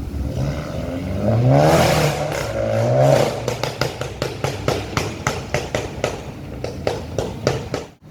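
A passing performance car's engine revs up hard in two pulls, then its exhaust pops and crackles in a rapid string of sharp bangs as the driver lifts off the throttle.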